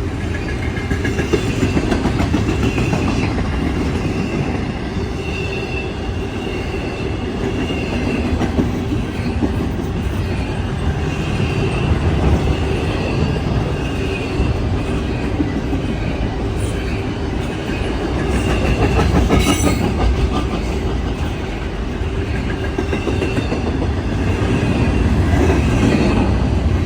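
Train passing close by: a steady rumble and clatter of steel wheels on rail, with a thin high squeal coming and going.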